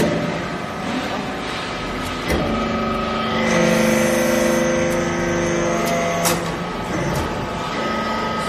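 Industrial machinery running with a steady mechanical noise. From about two to six seconds in, a held hum with several steady tones rises over it, and a few sharp clicks sound.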